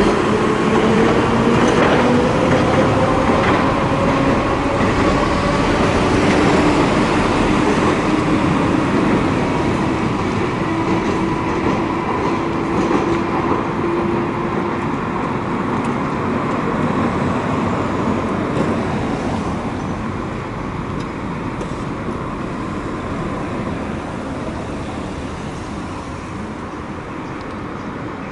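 Hiroshima Electric Railway streetcar pulling away from a stop. Its traction motor whine rises in pitch over the first few seconds, then holds steady over the running noise as the tram fades into the distance.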